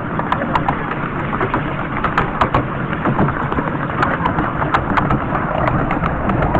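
Miniature railway train running along the track: a steady rumble with many irregular sharp clicks and knocks from the wheels on the rails.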